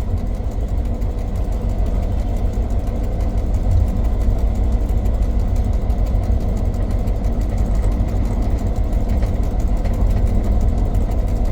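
Former V/Line P class diesel-electric locomotive P20's diesel engine running at low power as it creeps along in a shunting move: a steady, deep engine rumble that grows a little louder a few seconds in.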